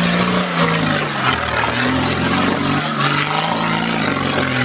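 Four-wheel-drive off-roader's engine working hard as the vehicle climbs a muddy bank, its revs dropping and rising several times, over a loud rushing noise.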